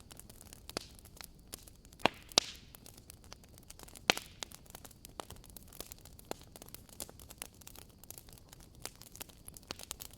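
Wood fire crackling: irregular sharp pops and snaps over a faint hiss, the loudest pops about two seconds in and again about four seconds in.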